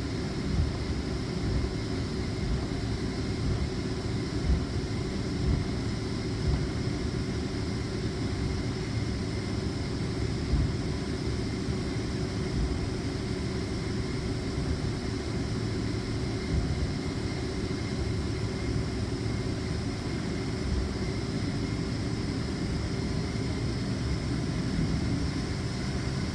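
Cabin noise of a Boeing 767-400ER taxiing: a steady jet-engine drone at low power over a low rumble, with a few light bumps from the rolling gear.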